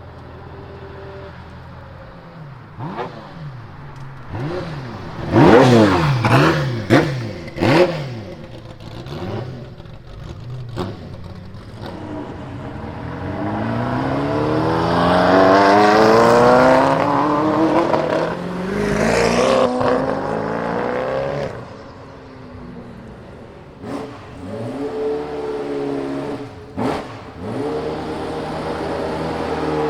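Ferrari F40 LM's twin-turbo 2.9-litre V8 with an unsilenced exhaust: idling, then several sharp throttle blips, then a long acceleration climbing in pitch in steps through the gears, and more quick revs near the end.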